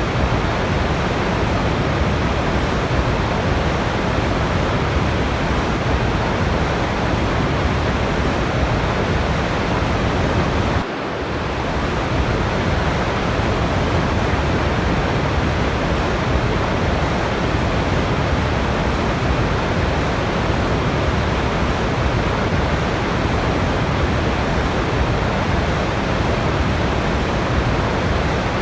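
Steady rushing noise of a waterfall, an even hiss with no pauses. About eleven seconds in it dips briefly and swells back.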